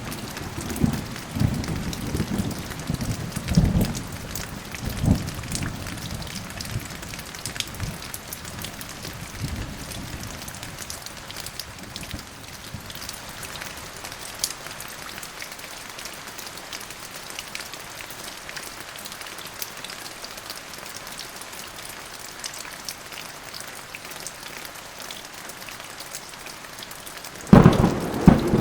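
Steady rain falling in a thunderstorm, with low rolling thunder rumbling through the first ten seconds or so and dying away, then a sudden loud thunderclap near the end.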